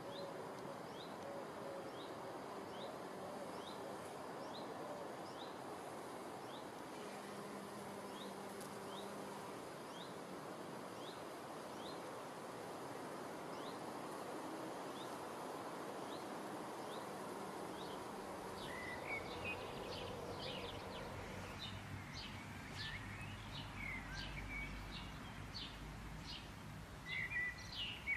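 Birds calling over a steady background hiss: a short rising chirp repeats about once a second, then, about two-thirds of the way in, busier and louder chirping takes over with a low rumble underneath.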